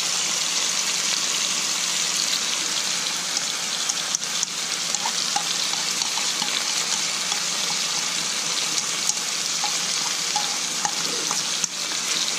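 Turmeric-and-dill-marinated fish pieces frying in oil in a pan, a steady sizzle with scattered small pops.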